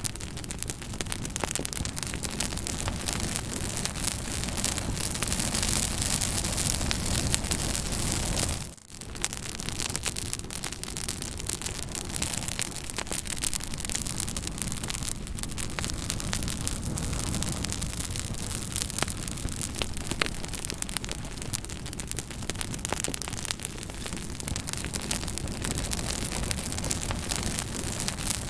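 Fire crackling: frequent small pops and snaps over a steady hiss, with a brief gap about nine seconds in.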